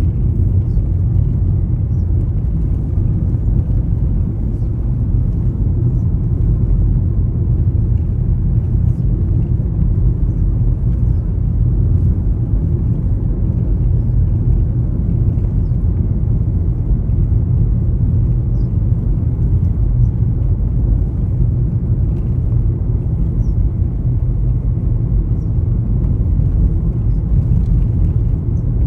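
Steady low rumble throughout, with a few faint, short high chirps.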